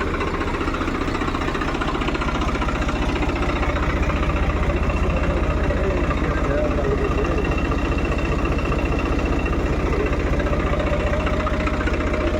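Tractor diesel engine running steadily at idle with an even low throb, getting slightly louder about four seconds in.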